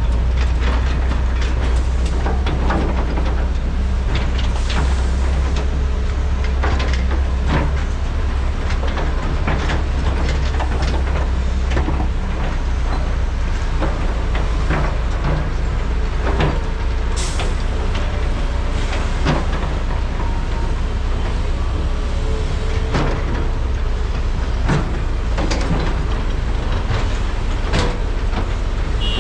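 Large hydraulic mining excavators working: a steady, heavy diesel drone, easing a little about twelve seconds in. Over it come frequent, irregular knocks and clanks from the buckets and the material being dug and loaded.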